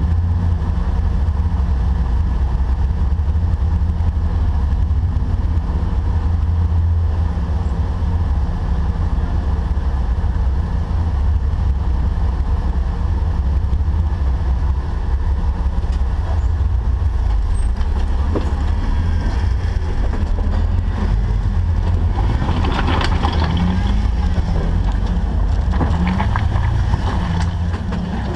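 Off-road Jeep's engine running in a steady low rumble, with more noise above it in the last few seconds.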